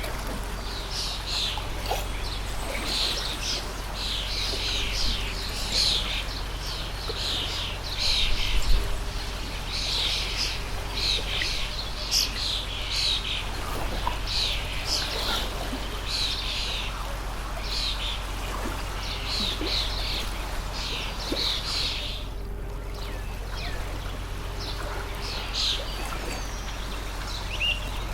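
Small birds chirping rapidly and continually over the steady rush of a flowing stream.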